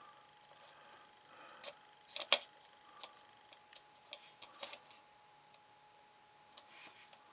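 Scattered light clicks and taps from handling card model parts and small tools on a work surface, with a few soft rustles; the sharpest is a quick cluster of clicks about two seconds in.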